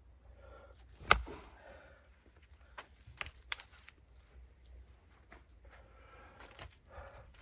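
A single sharp knock about a second in, followed by a scatter of lighter clicks and taps.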